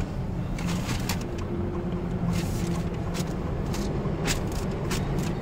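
Steady low hum of a car engine idling, heard from inside the cabin, with a few light clicks and rustles.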